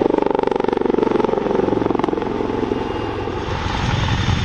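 Royal Navy Wildcat HMA2 helicopter flying a display, its rotor giving a rapid, steady chop. Near the end the chop fades and a deeper rumble takes over.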